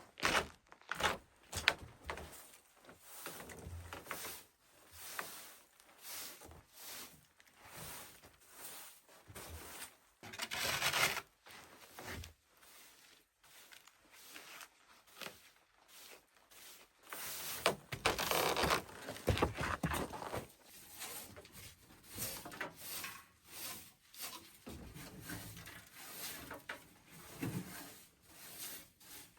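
Irregular knocks, clicks and rubbing of things being handled in a small room, with longer stretches of rustling about ten seconds in and again past the middle.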